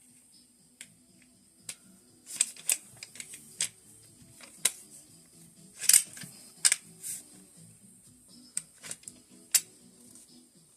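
Irregular sharp clicks and clacks of rifle parts and hand tools being handled, in clusters, loudest about six to seven seconds in, over faint background music.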